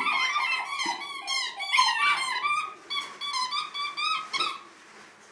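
Latex squeaky toy squeaked over and over as Labradors chew and tug at it: rapid short, high squeaks that thin out about halfway and stop near the end.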